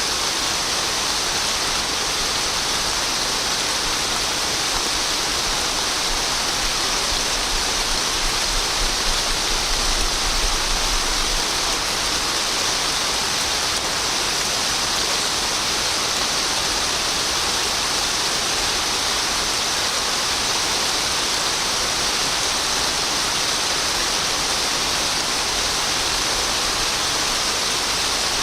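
Steady, heavy rain falling continuously, an even hiss with no separate drops standing out, and a slight low rumble swelling briefly about a third of the way in.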